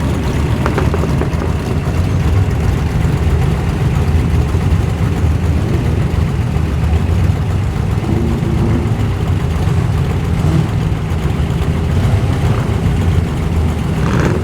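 Muscle car engine idling and running at low speed as the car rolls in, a steady deep rumble.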